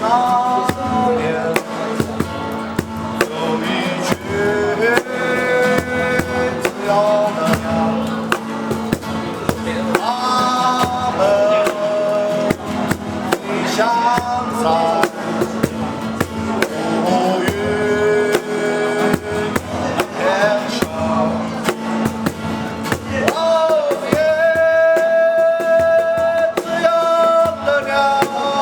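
A guitar-and-drum-kit band playing a song, with a melody line of sliding, held notes over steady chords and a regular drum beat.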